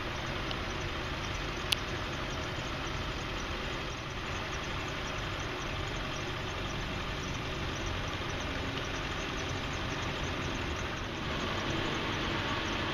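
Diesel engine of a 2002 Ford F550 bucket truck, a 7.3-litre Power Stroke V8, idling steadily. A single sharp click comes about two seconds in.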